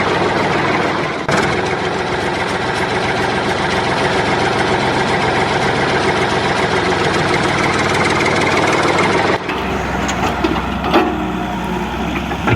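Engine running steadily. About nine seconds in it cuts off abruptly to a lower hum with a few clicks.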